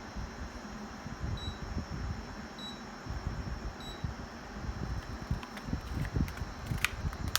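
Toshiba mini split air conditioner indoor unit running with a steady, noisy rush of air. Three short high beeps sound about a second apart in the first half, and there are a couple of sharp clicks near the end.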